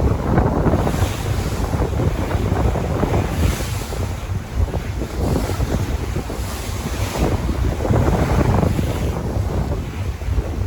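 Sea waves washing and breaking, rising and falling every couple of seconds, with wind buffeting the microphone in a steady low rumble.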